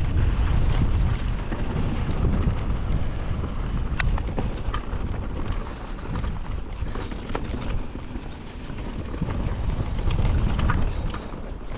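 Mountain bike descending a rough downhill trail: a steady rumble of wind on the microphone and tyres on dirt, with scattered sharp clicks and rattles as the bike hits rocks and roots, one stronger knock about four seconds in.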